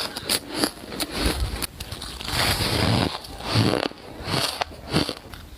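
Soft ice being bitten and crunched, close to the microphone. First comes a quick run of sharp crackly snaps, then longer grinding crunches as it is chewed.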